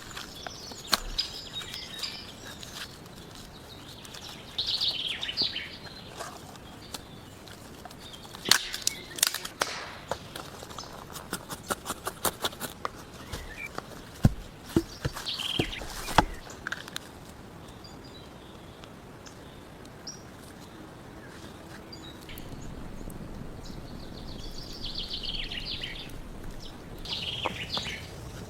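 Wild birds chirping in short bursts several times, over scattered sharp clicks and knocks that come thickest in the first half.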